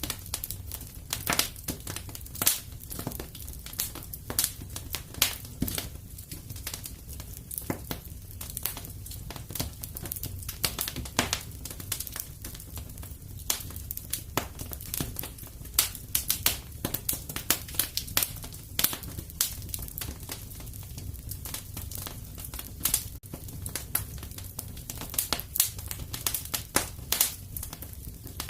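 Wood fire in a fireplace crackling, with frequent irregular sharp pops and snaps over a low, steady rumble of the burning.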